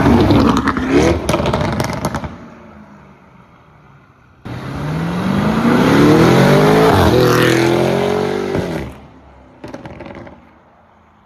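Lamborghini Urus twin-turbo 4.0 V8 with catless downpipes and a Stage 2 tune, accelerating hard. The first pull fades out with exhaust crackles about two seconds in. After a lull a long pull comes in sharply with the revs climbing, and there is a short crackling blip near the end.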